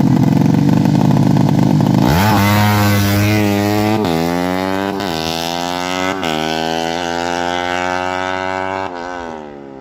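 Drag-tuned 200cc underbone motorcycle with a bored-up Yamaha Jupiter four-stroke engine and a PWK Sudco 33 carburettor, running flat out on a test pull. After two seconds of loud, low engine noise its pitch climbs steeply, then it shifts up about four, five and six seconds in, each shift a short dip in pitch before it climbs again. Near the end the sound drops away and fades as the bike pulls off.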